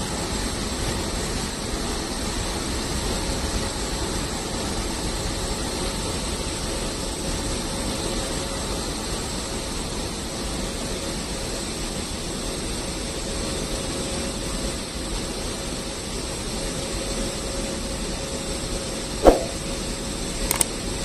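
Passenger train coaches rolling past at speed, with a steady rush of wheels on rail. About nineteen seconds in there is a short sharp hit, then a couple of faint clicks.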